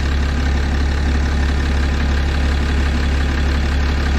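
6.7 Cummins inline-six turbodiesel idling steadily, with a fast even clatter and some knocking in it; the owner suspects bad factory injectors at 859,000 miles.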